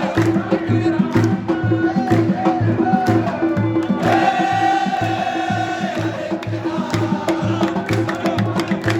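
Crowd of volleyball fans chanting in unison to a steady drum beat, with one long held sung note about four seconds in.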